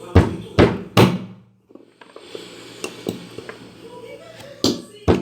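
Sharp knocks, like tapping on a hard part: three hard knocks in about a second, a short pause, some lighter taps, then two more hard knocks near the end.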